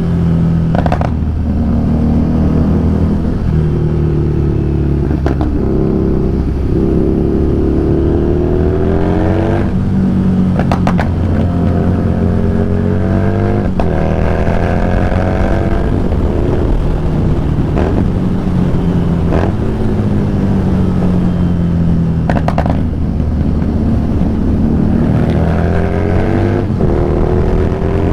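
Harley-Davidson Street Rod 750's V-twin engine under way, its pitch rising repeatedly as the bike accelerates and falling back as the throttle eases, with a few brief sharp clicks.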